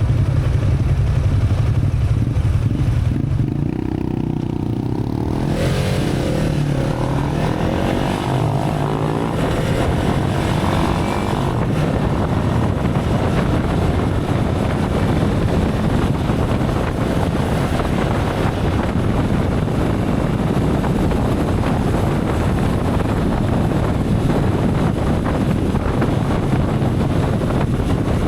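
Motorcycle heard from onboard while riding. The engine's low hum shifts and climbs in pitch about five seconds in as it speeds up, then steady wind rush and road noise take over.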